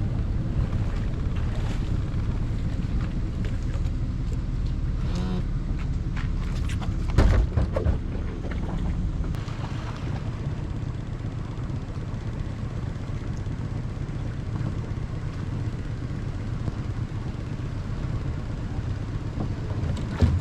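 A motor runs steadily as a low rumble, with wind on the microphone. A loud knock comes about seven seconds in, after which the rumble is a little quieter.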